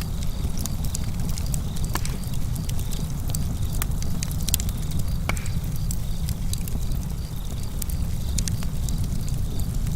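Campfire crackling: frequent sharp pops and snaps of burning wood over a steady low rumble.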